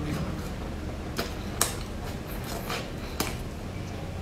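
Close-miked chewing of soft bread rolls, with a few sharp mouth clicks. The loudest click comes about a second and a half in.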